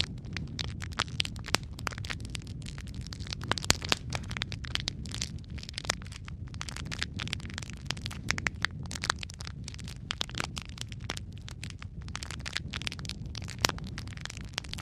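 Wood fire crackling in a fireplace: a steady low rumble of flames under dense, irregular pops and snaps, a few of them sharper and louder.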